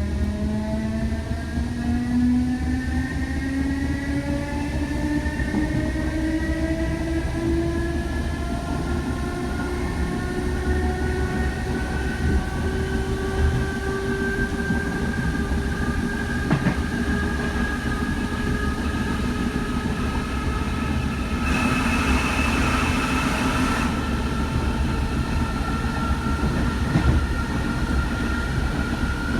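Electric DART train, likely a class 8100 unit, accelerating: its traction motors whine as a stack of tones rising steadily in pitch over a constant low rumble of running gear. A brief rush of hiss comes about two-thirds of the way through.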